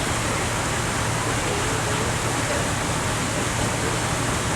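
Steady rush of wind and water from aboard a moving ferry, over the constant low hum of the ferry's engine.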